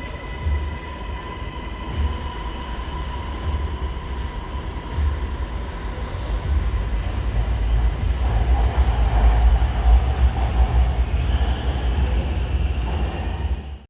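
Electric commuter train running: a steady low rumble with a thin whine that fades over the first half, growing louder in the second half. The sound cuts off abruptly at the end.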